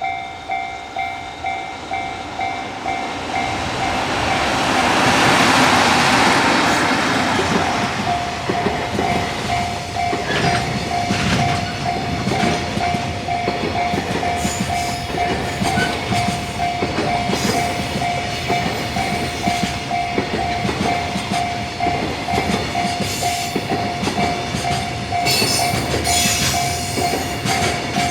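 Freight train passing close: a broad rush as the head of the train goes by about five seconds in, then the steady clickety-clack of the wagons over rail joints. A level-crossing warning bell rings throughout, a pulsing two-note tone about twice a second.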